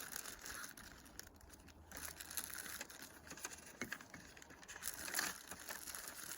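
A sheet of paper rustling and crinkling as it is unfolded and handled, with small irregular crackles.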